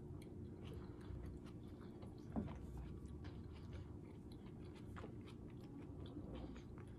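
Quiet chewing of a mouthful of soft spinach tortilla wrap with chicken, tomato and mozzarella, heard as faint wet mouth clicks. There is one short vocal sound about two and a half seconds in.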